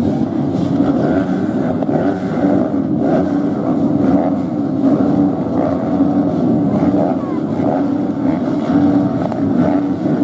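Several motocross dirt bike engines running, their pitch rising and falling over and over as they rev and shift around the track.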